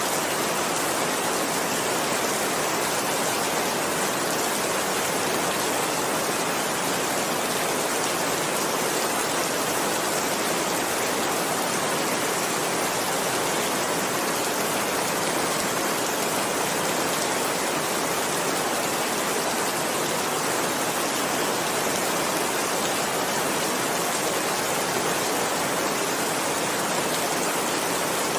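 Steady heavy rainfall, an even hiss of rain pouring without a break.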